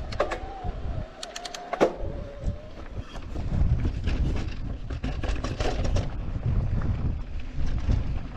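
Electric mountain bike riding over a rough trail: low wind buffeting on the camera microphone and tyre rumble, with scattered sharp clacks and knocks as the bike goes over bumps. A steady whine sounds for the first couple of seconds and then fades.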